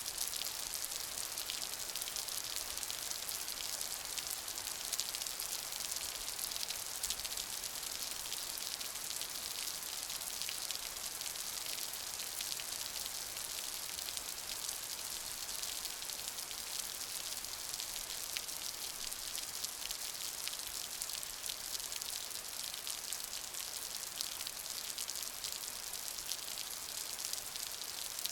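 Steady rain falling, with the close patter of many individual drops.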